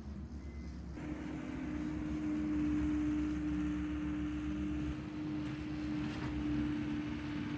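Tractor running with a power rake working the ground: a steady engine drone, joined about a second in by a steady whine as the sound grows louder.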